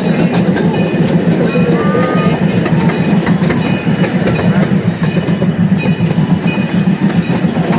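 Park train running along its track, heard from on board: a steady low rumble with irregular clicks and clacks of the wheels over the rails.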